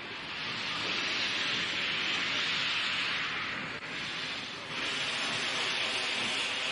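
Steam locomotive under way, heard as a steady rushing hiss with a brief dip about four seconds in.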